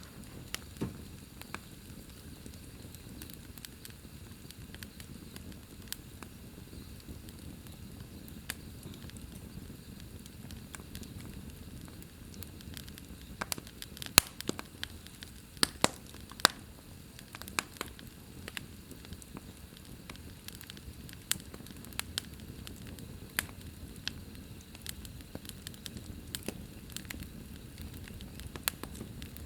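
Fire in a fireplace crackling: a steady low rumble of flames with scattered sharp pops, which come thickest about halfway through.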